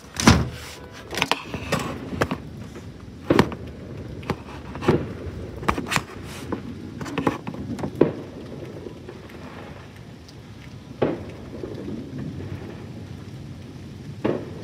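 Thunderstorm: steady rain with a low rumble, broken by about a dozen sharp, irregular cracks or taps. The loudest comes just after the start, and they thin out after about eight seconds.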